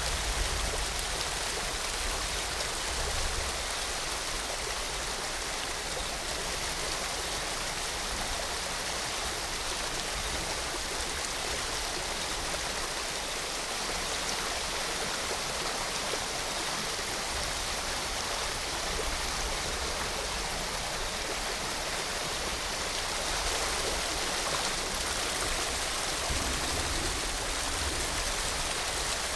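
Steady rushing of rain and a waterfall: an even, unbroken hiss of falling water with no separate drops or pauses.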